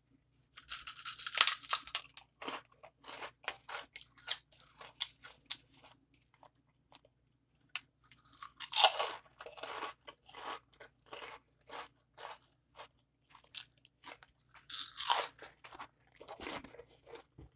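Someone biting into and chewing crisp fried wagon-wheel snacks coated in cinnamon sugar, eaten for ASMR. There are three louder crunching bites, about a second in, near the middle and near the end, each followed by a run of smaller chewing crunches.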